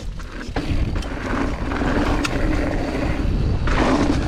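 Mountain bike rolling downhill on a dirt trail, picked up by a helmet or chest action camera: a steady rush of wind and tyre noise that grows louder as speed builds about half a second in.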